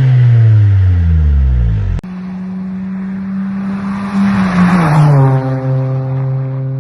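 Honda Civic EP2 four-cylinder engine and exhaust: revs fall away after sharp blips. Then a clip cut to a steady engine note that swells louder about three seconds in, drops in pitch, and settles into a lower steady drone.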